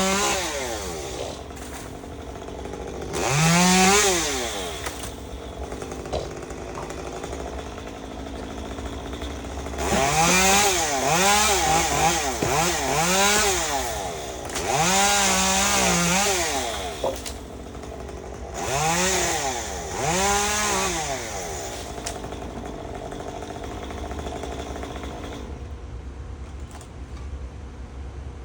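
Chainsaw revved in repeated bursts, its engine pitch climbing and falling with the throttle, with quieter running between the bursts; the longest run of revving lasts from about ten to seventeen seconds in, and it settles lower near the end.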